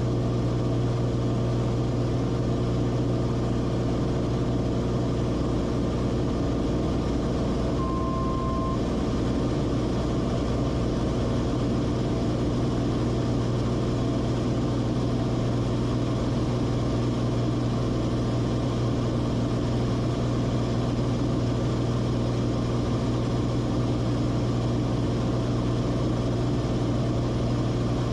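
Cessna Corvalis TTX's turbocharged six-cylinder engine and propeller droning steadily in flight, with one short beep about eight seconds in.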